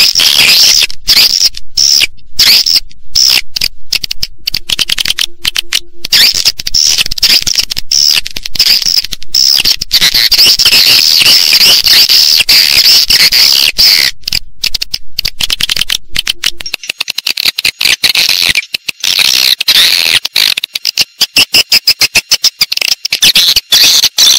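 Edible-nest swiftlets calling: a dense, loud, high-pitched twittering chorus. About two-thirds of the way in it turns into quick chattering pulses broken by short gaps.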